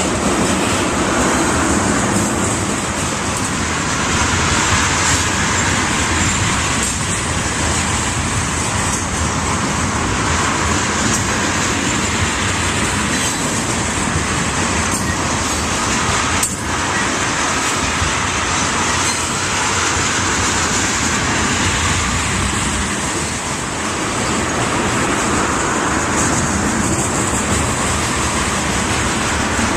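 Train passing on the tracks with a steady rumble and rail noise, with faint clicks from the wheels over the rail joints.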